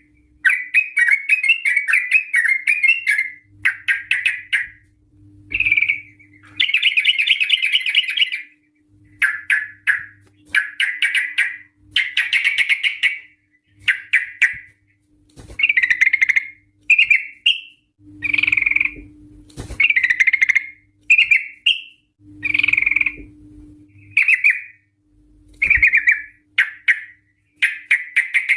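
Yellow-vented bulbul (trucukan) singing: loud, bubbly chattering phrases, some run into fast trills, repeated over and over with short pauses between them.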